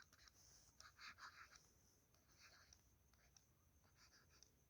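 Faint scratching of handwriting: short, irregular pen strokes across a writing surface as figures are written out.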